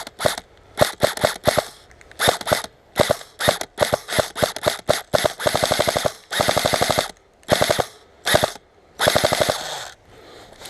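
Airsoft gun firing in rapid full-auto bursts: several short strings of shots, then two longer ones about six and nine seconds in.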